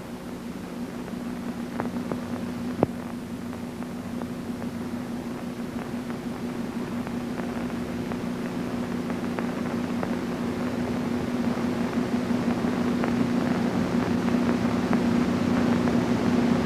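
A steady low hum with scattered crackling clicks that grows slowly louder.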